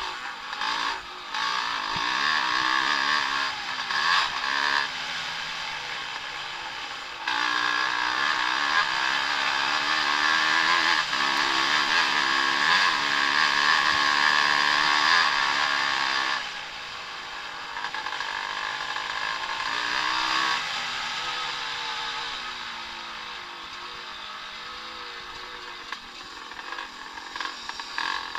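Vintage Evolution-class 250 and 500 motocross bikes racing, their engines revving up and down over and over. The engine noise gets louder about a quarter of the way in, stays up for about ten seconds, then drops back fainter.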